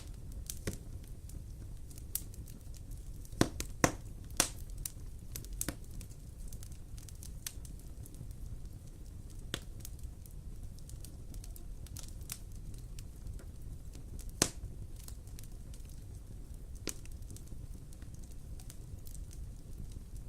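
Wood fire crackling in a fireplace: a steady low rumble with irregular sharp pops and snaps, the loudest a few seconds in and again about two-thirds of the way through.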